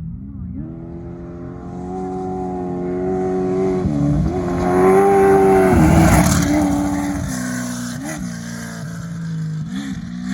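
Desert off-road race vehicle's engine revving hard as it approaches and passes, loudest about six seconds in. The pitch dips and climbs again several times.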